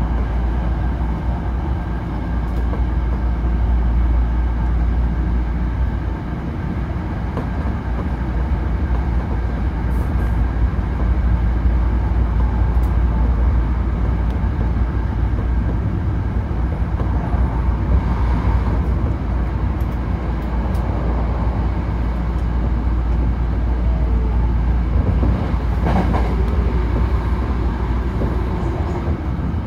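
A Hankyu Kyoto Line limited express train running at speed, heard from inside the passenger car: a steady low rumble with a faint steady whine above it.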